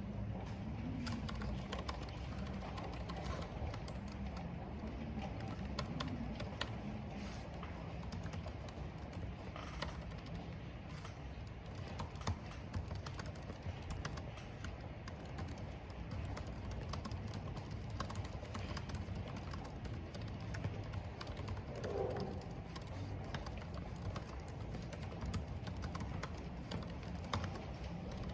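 Computer keyboard typing, irregular quick key clicks, over a steady background of wind and rain.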